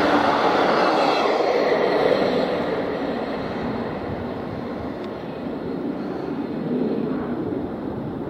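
Arriva Trains Wales Class 158 diesel multiple unit passing close by and running away along the main line, its engine and wheel noise loudest in the first two seconds and then fading steadily.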